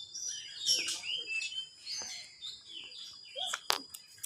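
Birds chirping: a rapid run of short, falling chirps, with a sharp click a little before the end.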